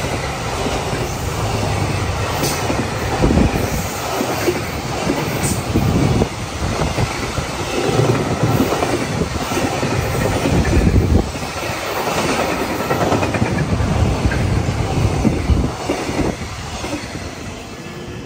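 Freight train passing close by, its wagons rolling over the rails with repeated heavy clacks as the wheels cross the rail joints.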